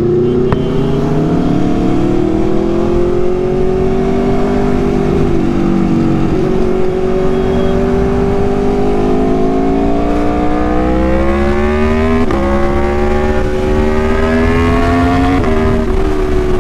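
Aprilia Tuono's V4 engine pulling a motorcycle up through the gears: its pitch climbs steadily and drops abruptly at each upshift, about five, twelve and fifteen seconds in.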